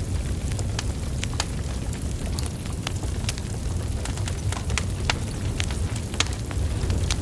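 Wood fire burning steadily: a low rumble of flame with frequent sharp crackles and pops from the burning logs, several a second at irregular intervals.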